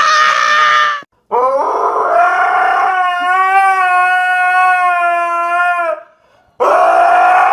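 A dog howling: one long howl that rises at the start and then holds steady for about four and a half seconds, with a second howl starting near the end. Before it, a shrill high-pitched squeal cuts off about a second in.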